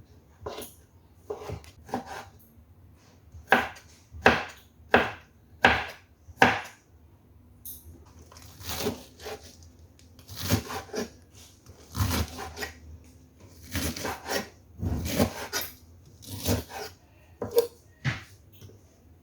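An irregular series of sharp knocks and clatters on a hard surface, with a run of five loud knocks a few seconds in, then softer, duller ones.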